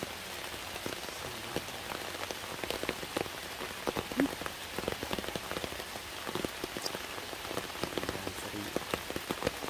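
Steady rain falling on leaves and rock, with many single drops striking close by.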